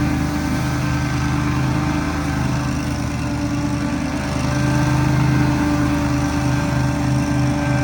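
Small gasoline engine running steadily under load. It gets a little louder about four and a half seconds in, then settles again.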